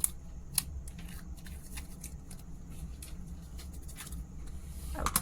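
Bubble slime being pressed and worked by hand, giving off a string of sharp popping clicks, a few loud ones near the start and many small ones after, with a louder snap near the end.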